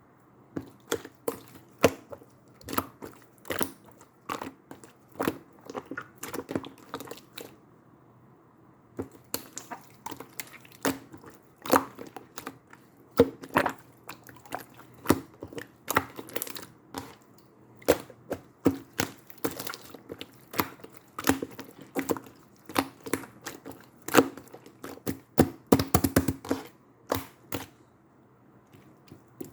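Slime being pressed and squeezed by hand, giving irregular sharp clicks and pops several times a second, with a short pause about eight seconds in and another near the end.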